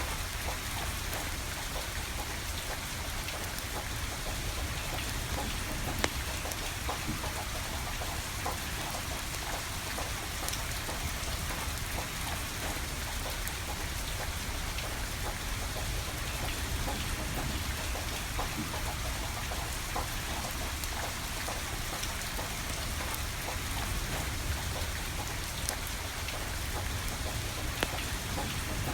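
Steady rain falling, with scattered sharp pops and crackles from a burning wood fire; the loudest pop comes about six seconds in.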